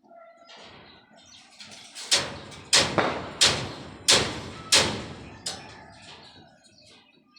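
Hammer blows at a construction site: about six sharp strikes in a steady rhythm, roughly two-thirds of a second apart, the last one weaker.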